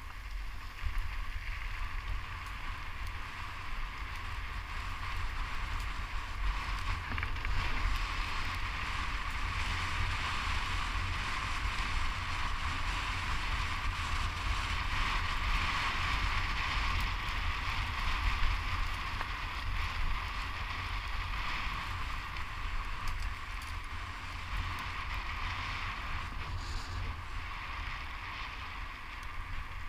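Wind buffeting the microphone with a steady rolling hiss of tyres on a fast downhill ride. The hiss swells slightly midway and then eases.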